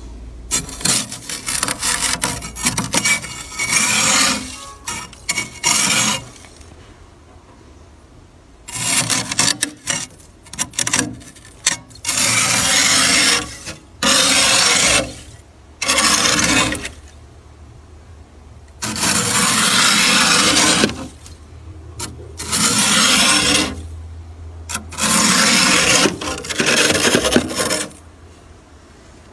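Freezer frost being scraped off the inside of a freezer, a harsh rasping in repeated strokes of a second or two with short pauses between them; the first several seconds hold quicker, choppier strokes.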